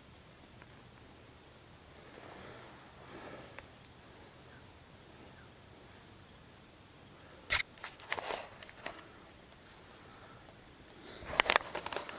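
Quiet marsh ambience with a faint steady high hum, then sharp clicks and rustling in the blind, one group a little past the middle and a denser run near the end.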